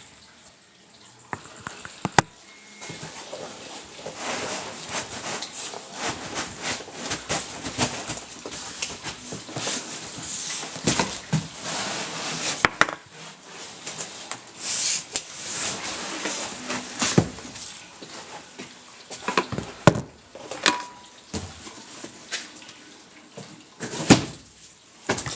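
Cardboard box and foam packaging rustling and scraping as a 3D printer is lifted out of its shipping box, with several sharp knocks and bumps along the way.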